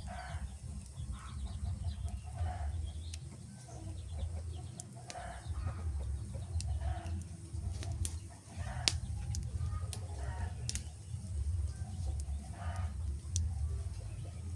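Wood fire crackling, with scattered sharp pops over a steady low rumble. Short calls recur about every second or two alongside it.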